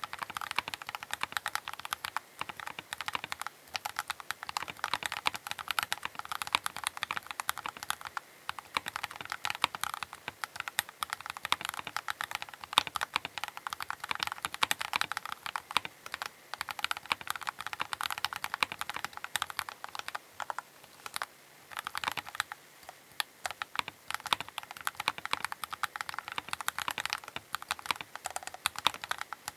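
Keychron K8 Pro mechanical keyboard being typed on steadily, a fast, uneven stream of key clicks with brief pauses.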